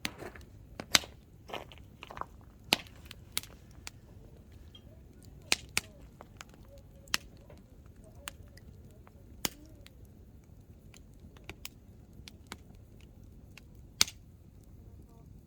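Hardwood campfire crackling, with sharp irregular pops and snaps from the burning firewood over the low steady noise of the fire. The pops come thickest in the first few seconds, with loud single snaps about a second in and near the end.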